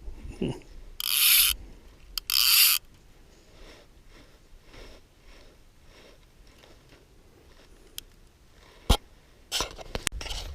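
Fly reel's click-and-pawl ratchet: two short loud buzzes, about a second in and again a second later, as line runs fast off or onto the reel, then faint ticking. A few sharp knocks near the end.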